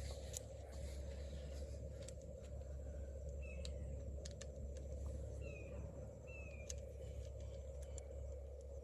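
A few short, falling bird chirps, three or four in the middle, over a faint steady low hum, with scattered light clicks.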